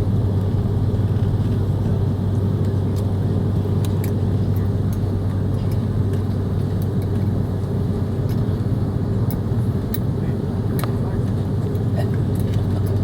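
Steady cabin noise of an Airbus A330-300 airliner: an even, low engine and airflow hum that does not rise or fall, with a few faint ticks.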